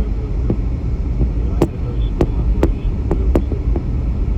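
About seven sharp cracks of gunfire at irregular intervals over a steady low rumble.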